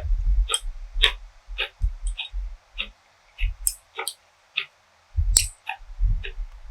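A person chewing food close to the microphone: wet mouth clicks about two a second over soft low thuds.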